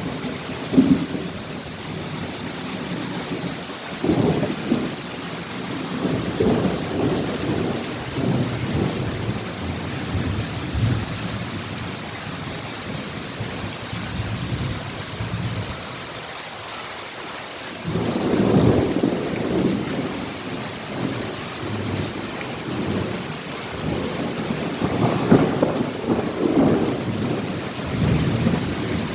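Thunder rumbling in long rolls over the steady hiss of rain, with a quieter lull in the middle and strong rolls again from about eighteen seconds in and near the end.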